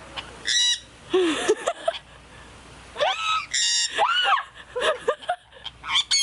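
A parrot giving a string of loud squawks and screeches, several calls arching up and then down in pitch.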